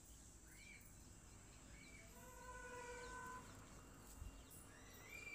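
Near silence with faint bird calls in the background: a few short chirps and one longer call held on one pitch around the middle.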